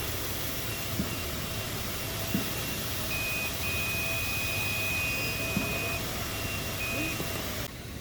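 Electronic warning beeper sounding in uneven short and long beeps, one held for a couple of seconds, over a steady low rumble of machinery; the sound drops away abruptly near the end.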